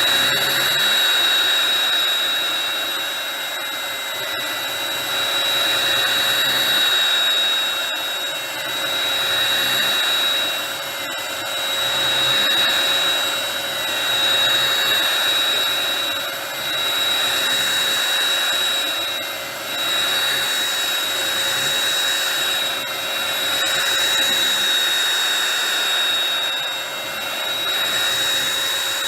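Bissell Pet Hair Eraser cordless lithium-ion hand vacuum running: a steady high-pitched motor whine over the rush of suction air. Its loudness swells and dips every few seconds.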